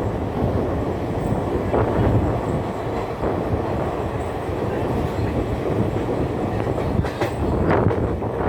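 Train running past at speed: a steady rumble of wheels on the rails, with a few sharp clacks.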